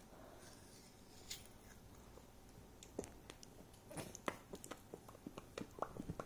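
A small child mouthing and chewing on an apple: faint wet smacks and clicks, coming thicker from about halfway through.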